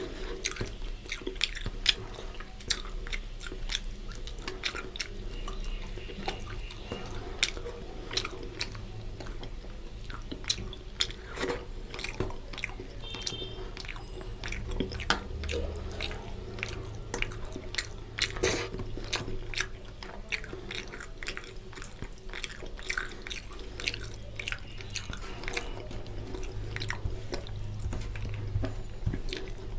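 Close-up chewing and wet lip-smacking of a person eating rice and fish curry by hand, a dense run of short, sticky mouth clicks.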